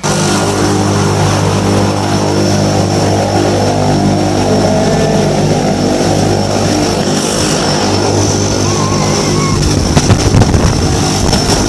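Propeller engine of a skydiving plane droning steadily, heard from inside the cabin. The noise grows rougher and more irregular near the end.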